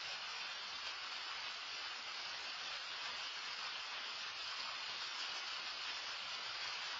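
Loud rain falling steadily, an even hiss that doesn't rise or fall.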